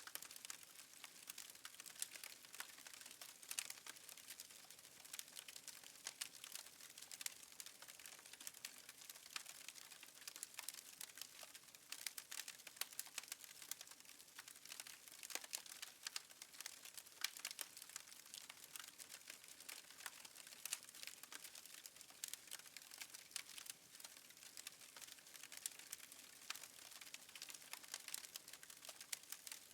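Faint wood fire crackling: a soft steady hiss with many small, irregular pops and snaps.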